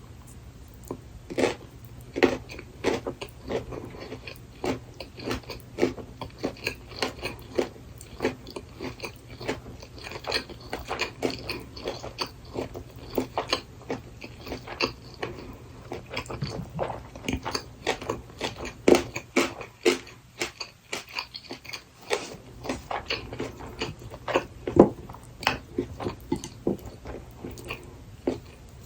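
Close-miked chewing of gimbap with burdock root filling: irregular wet crunches and clicks, several a second, over a steady low hum.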